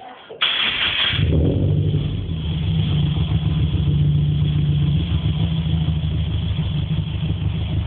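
2008 Subaru Impreza 2.0R-S's flat-four engine, breathing through unequal-length headers and a full aftermarket exhaust, starting up: a short burst of cranking about half a second in, then the engine catches and settles into a steady, low idle.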